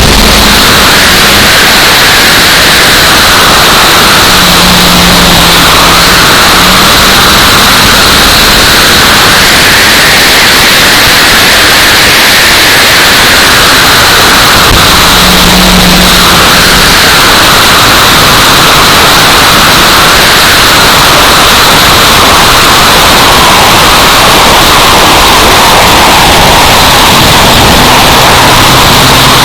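Loud, steady wind noise buffeting the microphone and swamping the recording, with stock car engines faintly heard beneath it.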